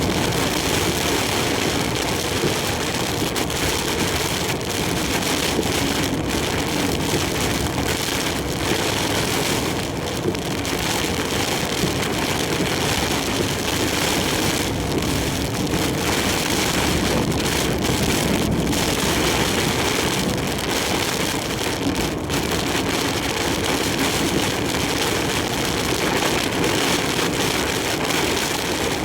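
Heavy typhoon rain and wind on a moving large truck: a steady, dense rush of rain and wind over the truck's engine and road noise.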